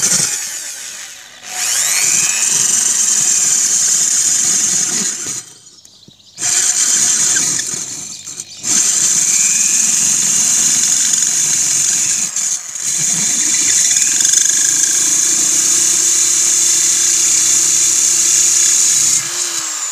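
Corded electric drill with a diamond drill bit grinding through a clay flowerpot, a loud high-pitched grinding whine. The drilling stops for about a second around five seconds in and again briefly near eight seconds, then runs steadily until the drill is let go near the end and its motor winds down.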